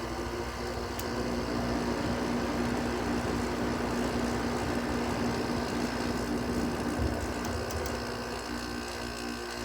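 Haier 5,200 BTU window air conditioner running, its fan blowing under a steady hum from the compressor. A light click about a second in.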